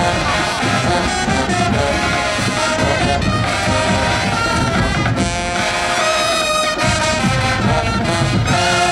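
High school marching band playing at full volume: massed brass carrying sustained chords and melody over a drumline.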